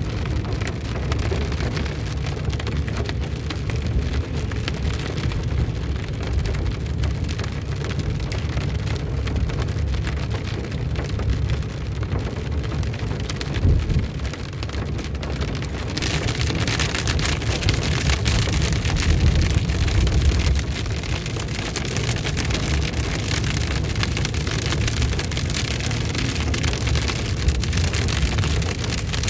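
Heavy rain pouring down as a steady hiss over a low rumble. The hiss grows stronger a little past halfway.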